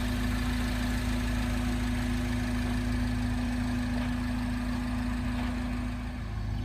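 Steady idling engine hum with one constant tone over a low rumble, unchanging throughout.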